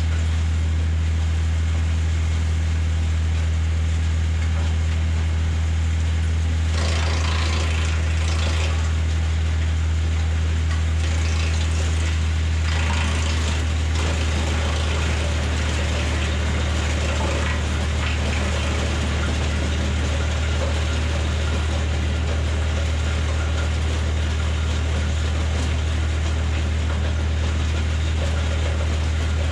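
Tractor engine at idle turning the BX-52 PTO-driven wood chipper, a steady loud low hum. Louder bursts of noise from the chipper come about seven seconds in and again around eleven to fourteen seconds, as branches are fed through. The PTO is only at idle speed, too slow for this chipper, which makes it clog.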